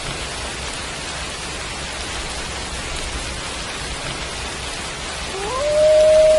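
Steady rain falling. About five seconds in, a wolf starts a howl, sliding up in pitch and then holding one long note.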